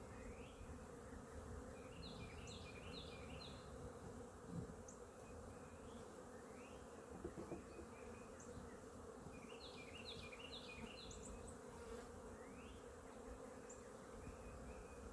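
Honey bees buzzing around an open hive: a faint, steady hum of the colony.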